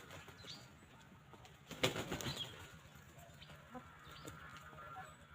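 A chicken flapping its wings in a short flurry about two seconds in, over faint calls of small birds and soft hen sounds.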